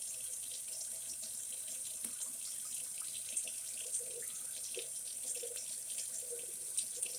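Water running from a tap into a sink in a steady stream, with a few small splashes and clinks.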